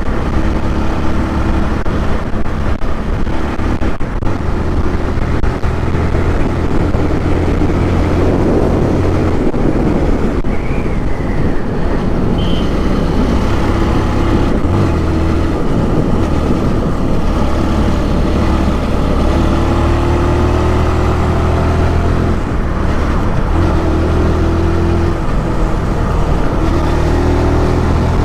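Benelli motorcycle engine running while riding, with wind rush on the microphone. The engine note changes several times and rises at points, as the throttle and gears change.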